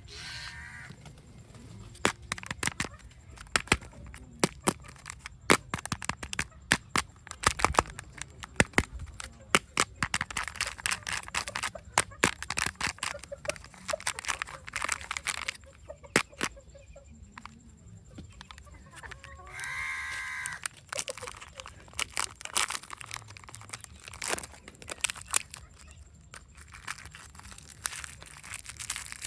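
Hands unwrapping surprise eggs and candy: plastic and foil wrappers crinkling and tearing, with many sharp clicks and cracks as plastic capsules snap open. A brief high-pitched, voice-like sound comes at the very start and again about 20 seconds in.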